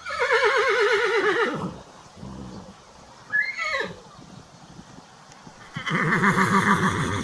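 Horse whinnying: a long, quavering neigh that falls in pitch, a short call in the middle, then a second long, trembling neigh near the end.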